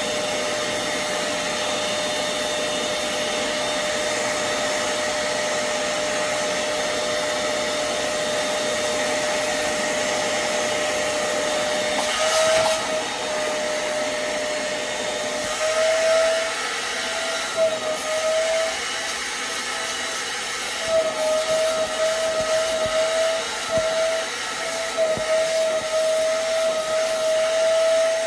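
Hoover CleanSlate portable spot cleaner's suction motor running with a steady whine over a hiss. From about halfway the pitch wavers and the loudness rises and dips unevenly, as the nozzle is worked over the couch upholstery.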